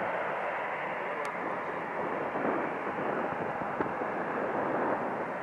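Steady jet engine noise from airliners taxiing at an airport, an even rushing sound with a small click about four seconds in.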